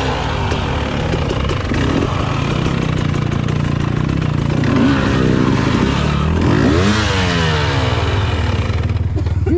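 Enduro dirt bike engine revving up and down, its pitch rising and falling with each opening and closing of the throttle.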